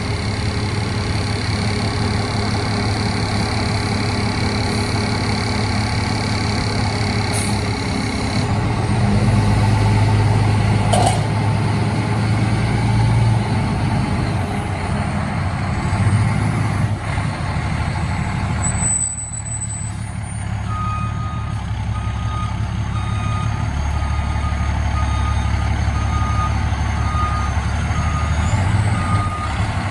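Fire truck engine running steadily, with a backup alarm starting to beep about two-thirds of the way through, roughly once a second as the truck reverses.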